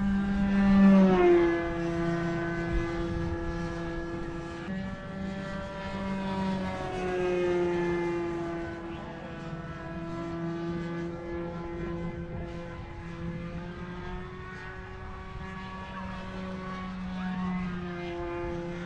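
Radio-controlled model aircraft built as a flying lawnmower, its engine and propeller buzzing steadily in flight. The pitch drops as it passes about a second in and glides down again around seven seconds, then fades slightly.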